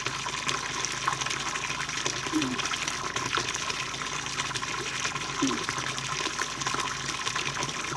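Running water flowing steadily with a constant rush.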